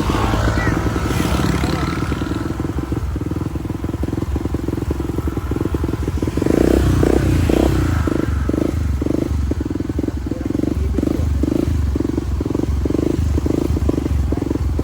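Motorcycle engine running during a ride: a steady low drone that turns into an even, rhythmic pulsing about halfway through.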